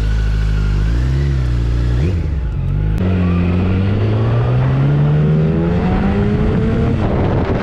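Motorcycle engine under throttle, picked up by a helmet camera: its pitch rises and falls, changes suddenly about three seconds in, then climbs steadily for the next few seconds before easing near the end.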